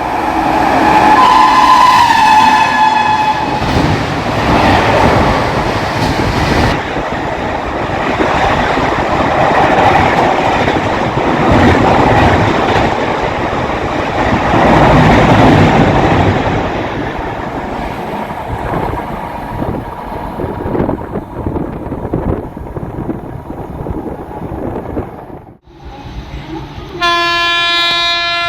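WAP-7 electric locomotive sounding its shrill horn, then an express train rushing past at speed in a loud, steady roar of wheels and coaches. The sound cuts off suddenly near the end, and another long horn blast begins.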